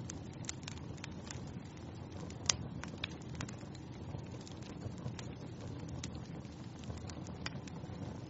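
Wood fire crackling in a fireplace: irregular pops and snaps over a steady low rumble of burning, with one sharper pop about two and a half seconds in.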